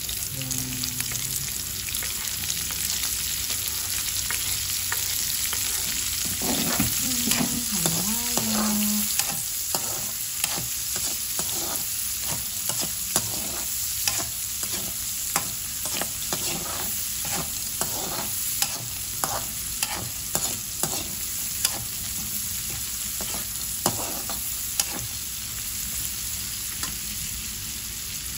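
Chopped red onion and garlic sizzling in hot oil in a wok, stirred with a metal spatula that scrapes and taps against the pan about once a second through the middle stretch.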